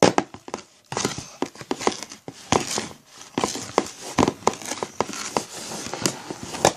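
A spoon stirring sticky homemade slime in a bowl: irregular clicks, taps and wet scrapes.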